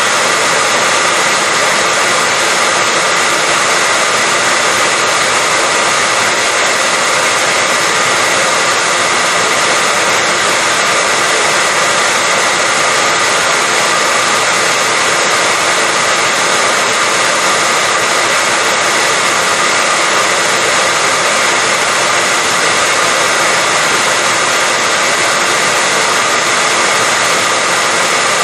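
Electric hair dryer running steadily, a constant rushing whoosh with a faint high whine, played as white noise to lull a baby to sleep.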